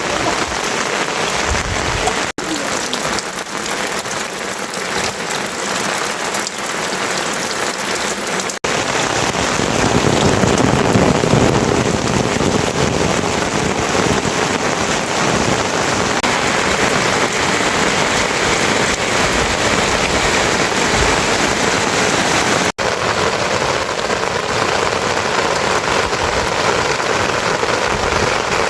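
Heavy rain falling steadily, a dense even hiss. It breaks off briefly three times, and after the second break, about a third of the way in, it comes back louder and fuller.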